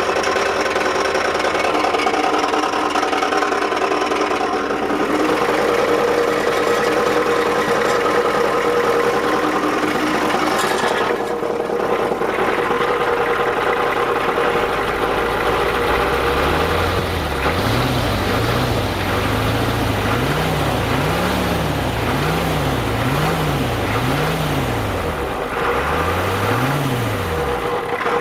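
Ford F250's 7.3-litre diesel V8 running with an odd grinding noise, which is worst at idle and goes away around 1500 rpm. From about halfway through, a low warble rises and falls about once a second. The owner wonders whether pushrods have worn holes in the rocker arms.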